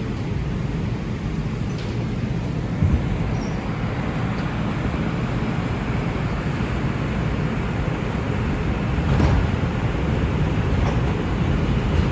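NYC Subway R142 train running between stations: a steady rumble of wheels on rail, with brief clunks from the track about 3 seconds in and again about 9 seconds in.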